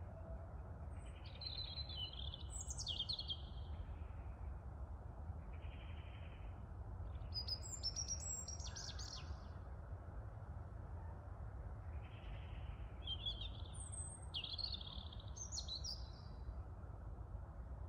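A songbird singing in three short groups of warbling, chirping phrases over a steady low rumble of wind on the microphone.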